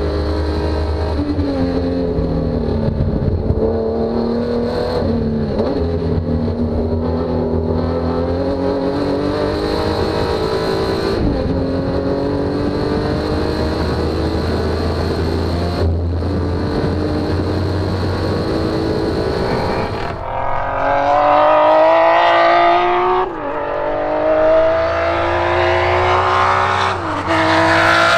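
Honda J35 V6 of a J-swapped race car lapping a track, its pitch rising and falling with the throttle over a steady low rumble. About 20 seconds in it gets louder and climbs hard, with two sudden drops in pitch as it shifts up.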